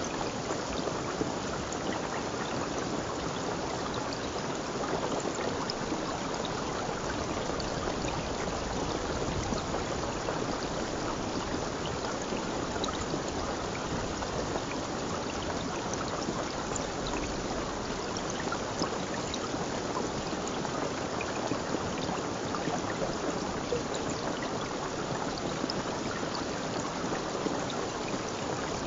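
Water flowing in a stream, a steady rushing and trickling with small splashes scattered through it.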